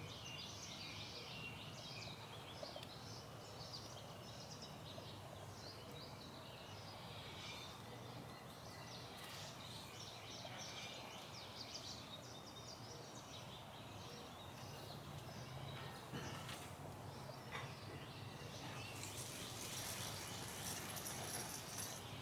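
Quiet outdoor background with small birds chirping over and over; a high hiss comes in near the end.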